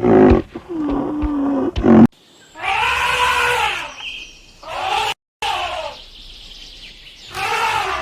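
A series of separate animal calls, each a pitched cry that rises and falls, with short breaks between them.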